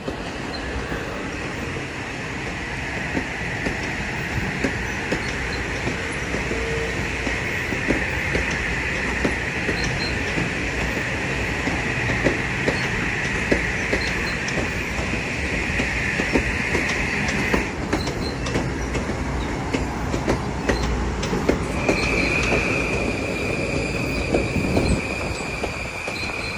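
Electric commuter train rolling past at low speed, its wheels squealing steadily on the rails and clicking over the rail joints. The squeal cuts off about two-thirds of the way through, and a higher-pitched squeal starts near the end.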